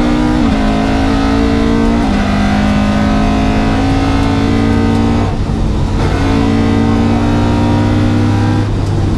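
Historic rally car's engine heard from inside the cabin, pulling steadily under throttle. Its pitch steps down twice in the first two seconds as it shifts up through the gears to fifth, with a brief lift about five seconds in and another drop near the end.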